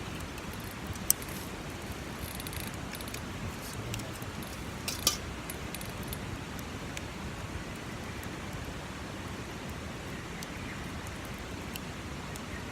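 Campfire burning, its wood crackling with scattered sharp pops: the loudest comes about a second in and another about five seconds in. A steady hiss lies underneath.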